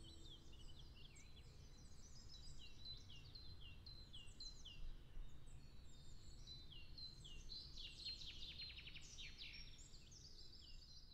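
Faint birdsong from several birds: many short, falling chirps overlapping, with a rapid trill about eight seconds in, over a low, even background rumble.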